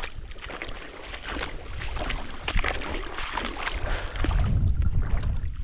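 River water splashing and sloshing, with wind rumbling on the microphone, louder from about four seconds in.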